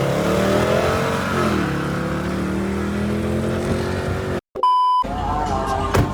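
Car engine under hard acceleration from a launch, its pitch rising, dropping at an upshift about a second and a half in, then climbing again. A short electronic beep cuts in about four and a half seconds in.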